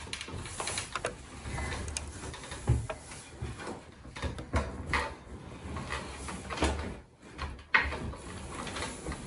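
Handling noise from a wooden rocking chair and a large latex balloon as someone climbs onto the chair and presses down on the balloon. There are several dull knocks from the chair over rubbing and shuffling, and the balloon does not pop.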